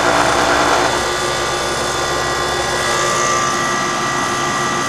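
A 1.5-ton York heat pump outdoor unit running: the condenser fan makes a steady rushing sound over the compressor hum, with a few steady whining tones. The sound eases slightly about a second in.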